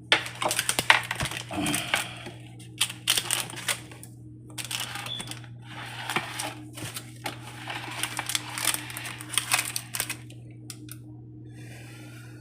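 Kitchen handling clatter: quick irregular clicks, clinks and scraping, in bursts, over a steady low hum. The clatter stops about ten seconds in.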